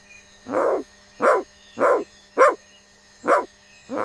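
Dog barking repeatedly: about six short barks in an uneven series.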